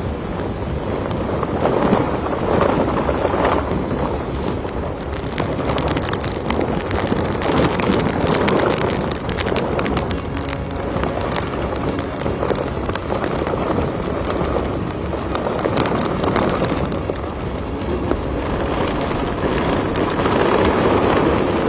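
Cyclone wind and heavy rain: a dense rushing noise that swells and eases in gusts, with many small sharp ticks of rain striking.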